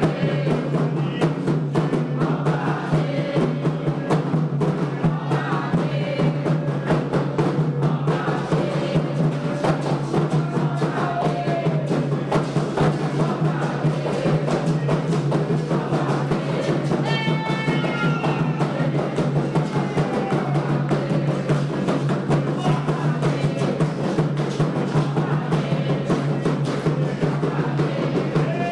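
Candomblé ceremonial drumming for Xangô: hand drums (atabaques) playing a fast, steady rhythm, with voices singing over it.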